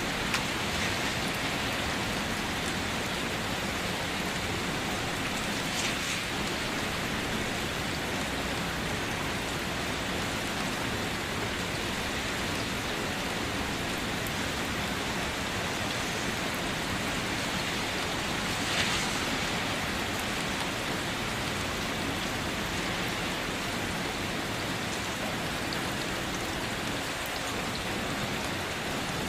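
Steady rain drumming on a car, an even hiss of drops with a few louder single drop hits, once about a third of the way in and again about two-thirds in.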